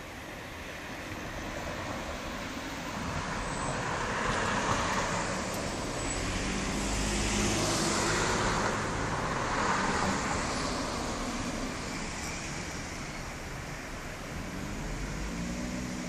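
Road traffic: passing vehicles make a rushing noise that swells over several seconds, peaks about halfway through and then fades down.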